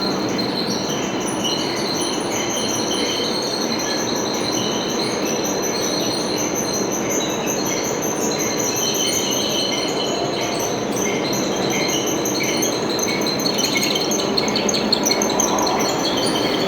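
Metal lathe running, with a steady machine hum and many short, high-pitched ringing squeals from the cutting tool on the workpiece. A few sharper crackles come in near the end.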